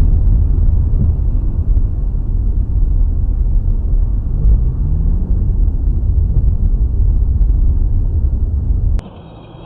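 Heavy low rumble of a moving vehicle, with an engine note rising in pitch about halfway through; it cuts off suddenly near the end.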